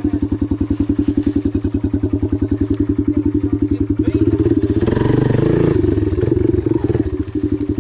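Dirt bike engine idling with an even, rapid pulsing, picking up briefly and more roughly about five seconds in.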